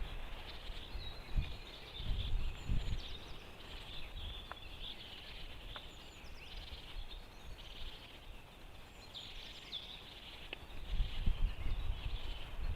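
Small birds chirping and trilling in the background, with a few short falling trills. Low gusts of wind rumble on the microphone a couple of seconds in and again near the end.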